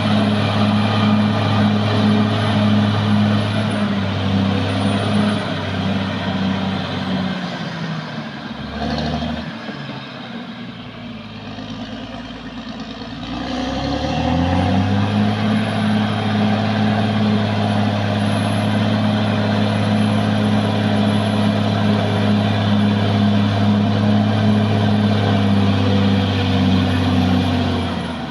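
Caterpillar D6R XL bulldozer's diesel engine running hard at high revs, easing down to a lower, quieter speed about seven seconds in, then revving back up to full power around fourteen seconds in and holding there.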